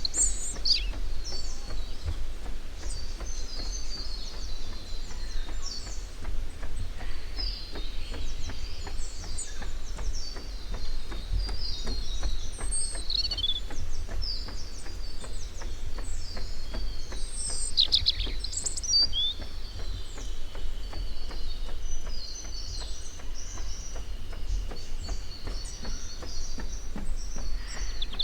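Many small songbirds chirping and twittering in quick, overlapping phrases, with one long even high note for several seconds in the second half. A steady low rumble runs underneath.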